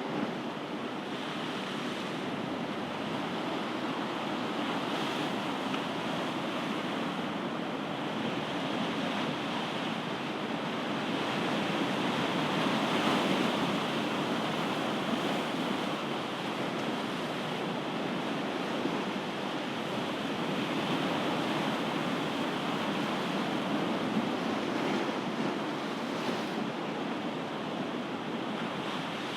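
Ocean surf: waves washing in as a steady rushing noise that swells and eases gently, a little louder about halfway through.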